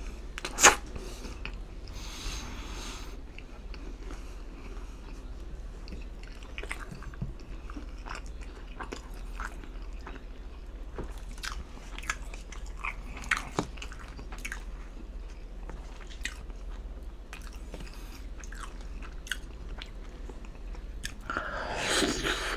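Close-miked chewing of pizza and buffalo wings, with scattered small wet clicks and smacks. It ends in a louder bite and crunch into a buffalo wing. A steady low hum runs underneath.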